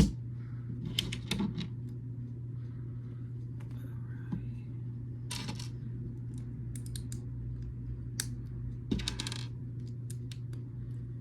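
Small plastic building bricks clicking and clattering as pieces are picked out and pressed together, with a few short rustles. A steady low hum runs underneath.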